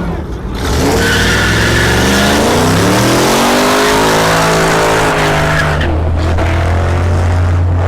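A car doing a burnout: the engine revs up and holds high while the spinning rear tyres squeal and hiss. About six seconds in the tyre noise stops and the engine settles to a lower steady note.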